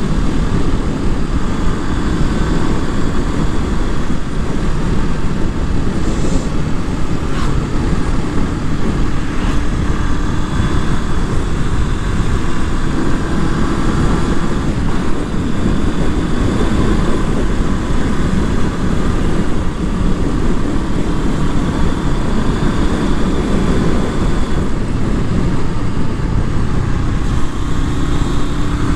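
Honda CB500F's parallel-twin engine running while riding, its pitch drifting gently up and down, under heavy wind rumble on the microphone.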